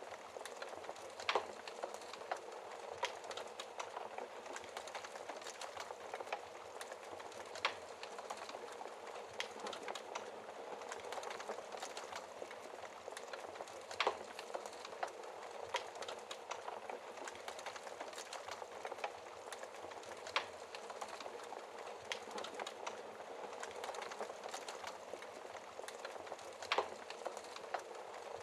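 Wood fire burning in a fireplace, crackling steadily over a soft hiss, with a sharp louder pop about every six seconds.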